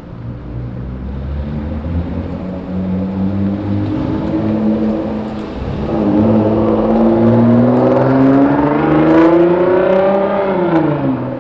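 A car's engine and exhaust running at low revs, then from about halfway accelerating, its note climbing steadily in pitch and getting louder, before the pitch drops sharply near the end.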